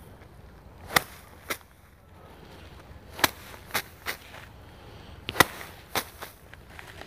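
Bundles of rice stalks beaten by hand to thresh out the grain: three rounds of whacks about two seconds apart, each a sharp strike followed by one or two lighter ones.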